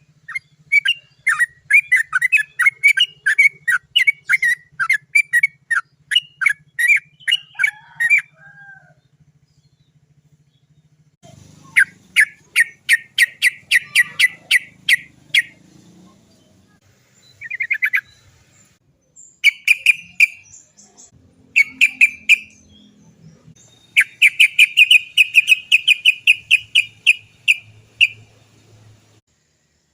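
Yellow-vented bulbul (trucukan) calling in long rolling series of rapid, sharp 'cok cok cok' notes, broken by pauses. The longest, densest roll comes near the end.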